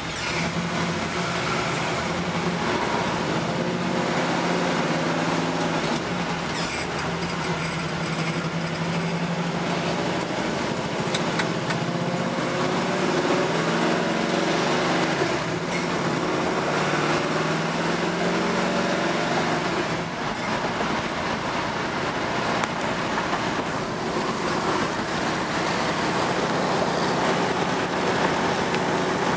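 1966 Chevelle's engine running under way, heard from inside the cabin, its pitch rising and falling as the car is driven, with road and wind noise.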